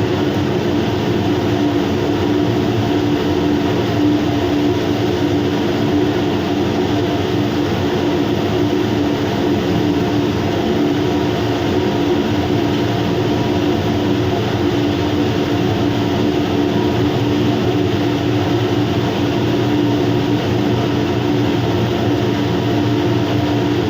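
Steady machinery hum with a few held tones over an even hiss, unchanging throughout.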